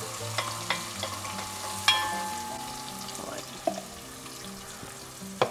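Blended spice paste frying in hot oil in a cooking pot, sizzling, while a spoon stirs it and clinks against the pot; one clink about two seconds in rings on for a second or so.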